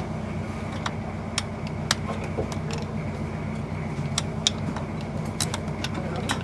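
Toyota Corolla GLi running with a steady hum, with irregular sharp clicks about one or two a second: the 'kit kit' noise that is the car's complaint.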